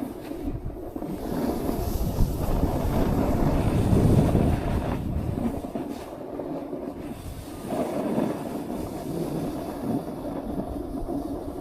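Snowboard sliding and scraping over snow, a steady rumbling rush that swells about four seconds in, with wind on the microphone.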